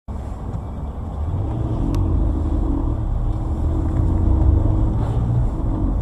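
Car driving, its engine and road noise making a steady low rumble picked up by a dashcam, with a faint steady hum in the middle and a small click about two seconds in.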